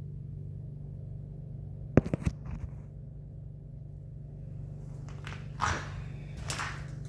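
A steady low droning hum, the recurring noise that the owner blames on her neighbours and feels as the floor vibrating. A sharp clack sounds about two seconds in, and shuffling, rustling noises come near the end.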